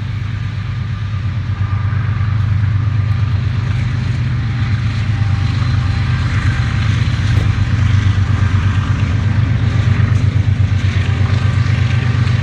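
CSX diesel freight train passing, its locomotive engine making a loud, steady low drone that grows louder over the first couple of seconds.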